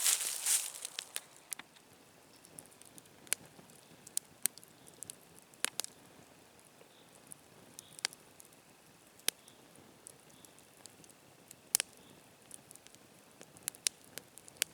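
Scattered sharp snaps and ticks, a dozen or so at irregular intervals over a quiet background, with a brief rustle at the start.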